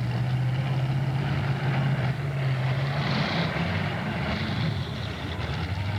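Demolition derby cars' engines running, a steady low engine note that rises and falls as they rev about halfway through, over crowd and arena noise.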